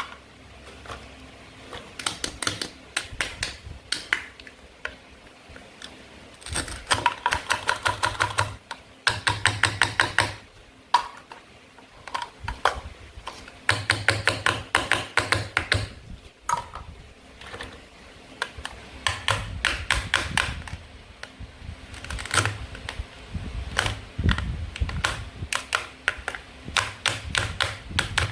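Toy fruit and vegetables being cut, giving rapid bursts of sharp plastic clicks and taps, several a second, with short pauses between the bursts.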